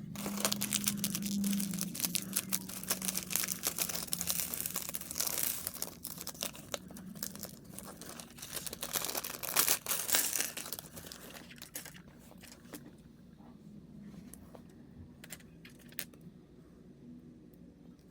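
Toy packaging being handled and opened: plastic wrapping crinkling and tearing with many small clicks, dense and loudest for about the first ten to twelve seconds, then thinning out to occasional clicks.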